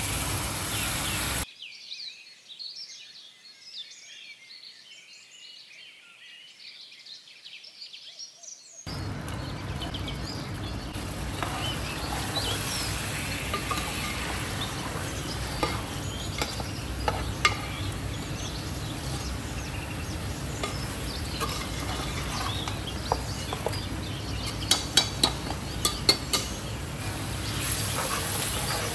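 Mutton korma frying in oil in a pot, sizzling, while a spoon stirs and scrapes it. For several seconds near the start the sound drops to a faint, high crackle. It then comes back full, with a few sharp clinks of the spoon against the pot near the end.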